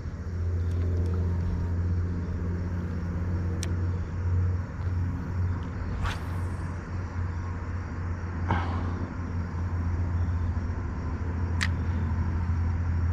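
A steady low engine rumble, with a few short clicks and a brief hiss about six seconds in.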